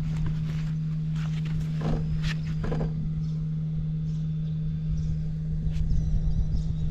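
Honda Super Cub 110 (JA07) fuel-injected single-cylinder four-stroke engine idling steadily, running without abnormal noise. A few short knocks sound about two to three seconds in.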